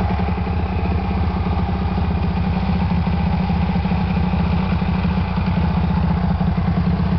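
Honda Gorilla's small four-stroke single, fitted with a Takegawa Super Head and a Kitaco lightweight outer-rotor ignition, idling steadily with an even, rapid beat.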